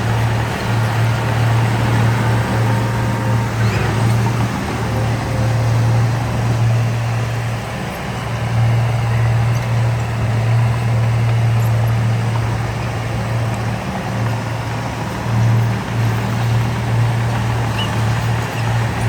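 Heavy diesel engine of construction machinery running steadily, a deep drone that dips briefly a few times.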